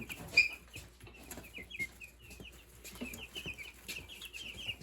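A group of young meat chickens (broiler chicks) peeping: many short, high, falling chirps, several a second, with one louder chirp about half a second in and a few faint knocks among them.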